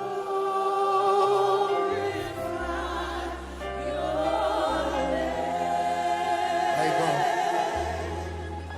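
Slow gospel worship music: voices singing long, sustained lines with vibrato over held chords and a deep bass that moves to a new note every second or two.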